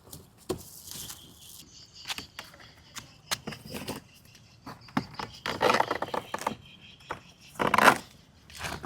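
Packaging and parts being handled: scattered clicks, knocks and scrapes, with two louder rustling bursts about five and a half and nearly eight seconds in.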